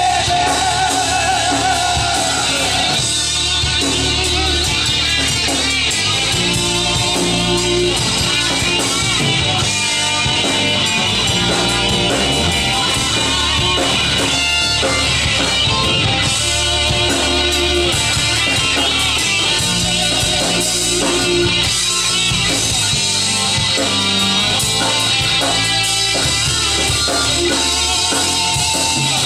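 A rock band playing live: electric guitar, bass and drum kit carrying an instrumental outro after the vocals end.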